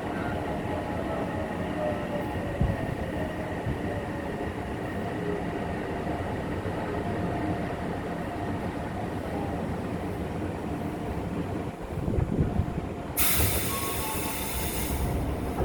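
Odakyu 8000 series train with Mitsubishi IGBT inverter control, heard from inside the car: the motor whine falls slowly in pitch as the train slows, over a steady rumble of wheels on track. About 13 seconds in, a loud hiss of air bursts out for about two seconds.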